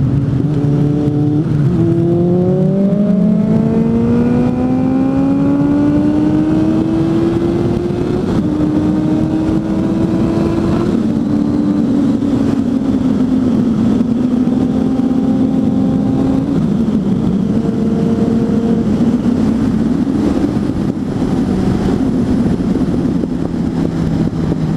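Suzuki GSF 600 Bandit's inline four-cylinder engine with an aftermarket exhaust, heard while riding. It revs up through the gears, with upshifts near 1.5, 8 and 11 seconds, then runs at a steady speed and eases off in two steps in the second half. Wind rushes over the microphone throughout.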